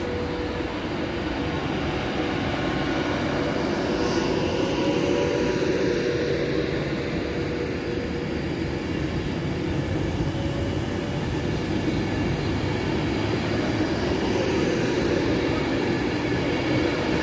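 A passenger train moving at a station platform: a steady rail rumble with a faint steady tone, growing a little louder a few seconds in.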